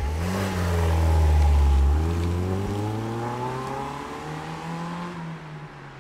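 Mercedes-Benz convertible pulling away and accelerating, its engine note rising, dropping at gear changes about two seconds and five seconds in, and growing fainter as the car drives off.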